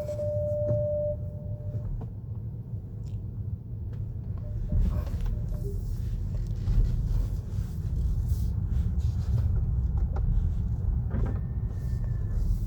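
Automatic car wash dryer fans blowing, a steady low rumble. A steady whine stops about two seconds in.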